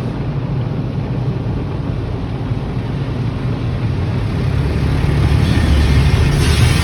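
Automatic tunnel car wash equipment working over the car, heard from inside the cabin: a steady rushing rumble that grows louder about five seconds in, with a brighter hiss joining near the end.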